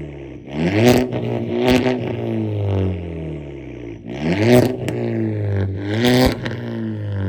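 Straight-piped Audi A3 8P exhaust, muffler and resonator deleted, as the engine is revved four times. Each time the revs climb quickly and then fall back slowly, with a crackle at the top of the louder revs.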